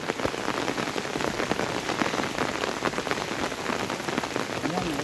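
Steady rain, a dense patter of drops hitting a nearby surface.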